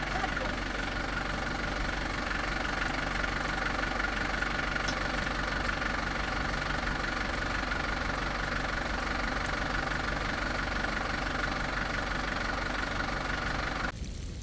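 An engine running steadily at idle, which cuts off abruptly near the end.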